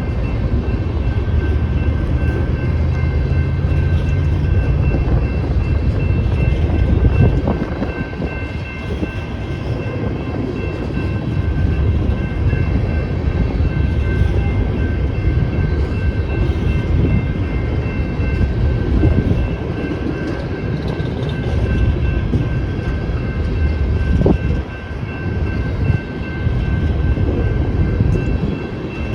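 Freight cars of a coal train rolling past at a grade crossing: a continuous rumble of wheels on rail, heaviest for the first several seconds, with a thin steady high whine over it and a sharp click a little over 24 seconds in.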